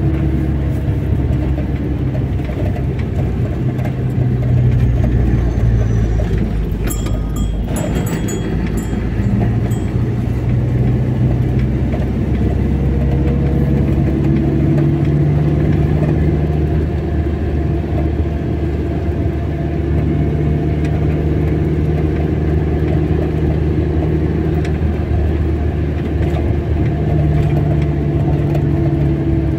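Car driving on the road: steady engine hum and tyre rumble. The engine note steps up and down in pitch a few times, with a brief patch of clicks about seven seconds in.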